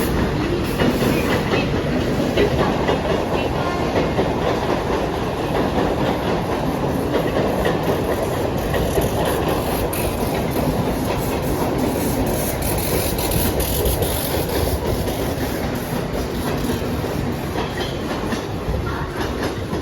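Mumbai suburban local train (electric multiple unit) running through the station, its wheels clattering steadily over the rail joints, with a hiss that rises for a few seconds midway.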